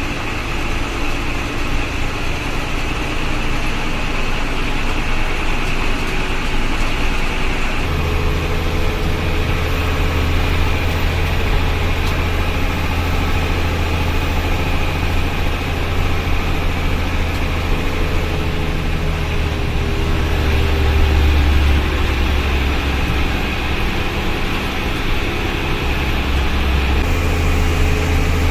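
Tata state-transport bus on the move: its engine drones steadily under road noise. About eight seconds in, a deep engine hum comes in strongly and stays.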